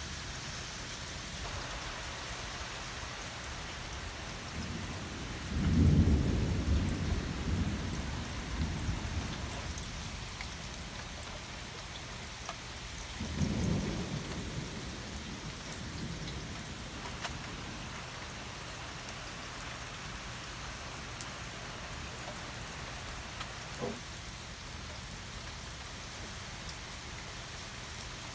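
Steady rain falling with two rolls of thunder: a loud clap about five seconds in that rumbles away over several seconds, and a smaller, shorter rumble about eight seconds later.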